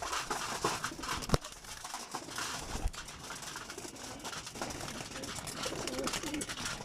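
Racing pigeons cooing, with scattered light clicks and one sharper knock about a second and a half in.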